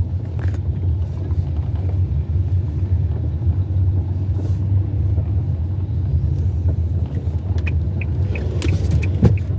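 Car driving, with a steady low rumble of engine and road noise heard from inside the cabin. Near the end a quick, even ticking starts, about three or four ticks a second.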